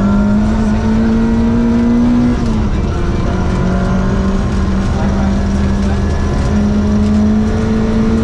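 Ford Escort Mexico rally car's engine heard from inside the cabin, pulling hard at speed on a gravel stage. The engine note drops about two and a half seconds in, climbs slowly again and steps up near the end, over constant gravel and road noise.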